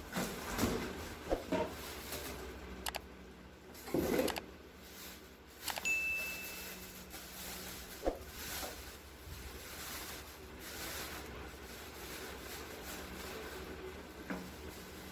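Scattered knocks, clatters and rustling of household objects being handled, with one short high beep about six seconds in.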